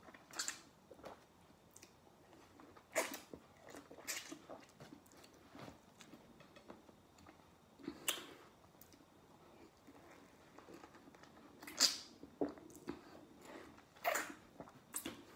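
A person biting into and chewing raw lemon slices, a handful of short, sharp mouth sounds at irregular intervals.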